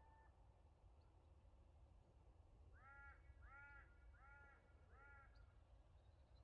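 A bird calling four times, faint: short calls that each rise and fall in pitch, a little under a second apart, over a low background rumble.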